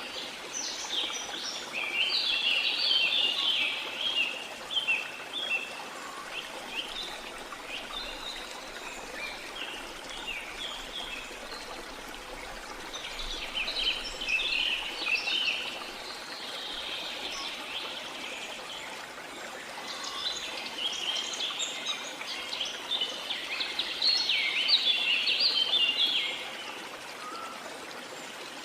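Steady rush of waterfall water, with songbirds chirping in dense, rapid bursts: a spell starting about two seconds in, another around the middle, and a longer one near the end.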